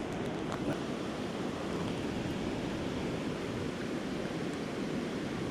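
Steady rush of creek water flowing over rocks, an even hiss-like wash.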